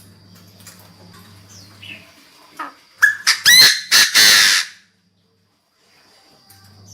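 Chinese francolin (decoy bird) calling: a loud, harsh call of several quick notes about three seconds in, lasting under two seconds. A faint steady hum sits underneath before and after the call.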